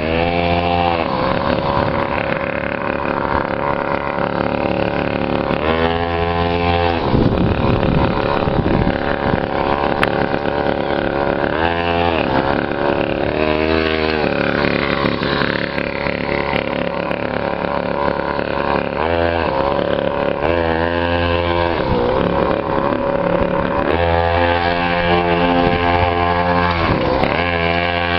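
Small custom chopper motorcycle engine running as it is ridden, its note rising and falling every few seconds as the throttle is worked.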